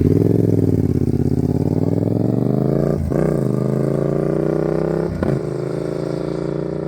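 Yamaha motorcycle accelerating away, its engine note climbing in pitch through the gears with two quick gear changes about three and five seconds in, growing fainter as it pulls off.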